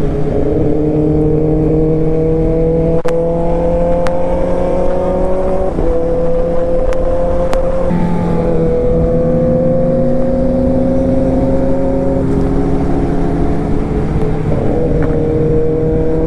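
Sport motorcycle engine pulling steadily through the gears at speed, its pitch climbing slowly and dropping sharply at each upshift, about four shifts in all. Wind rushes over the microphone throughout.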